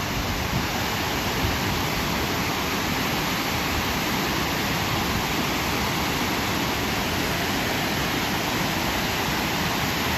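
Steady rush of a high-flow waterfall, the Willow River pouring over a fall of about 14 to 15 feet.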